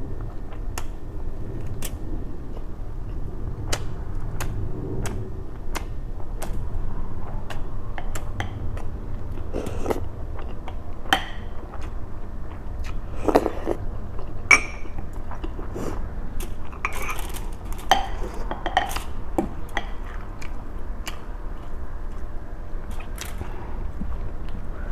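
Close-miked chewing and biting of food, with many small wet clicks and a run of louder crunchy bites around the middle.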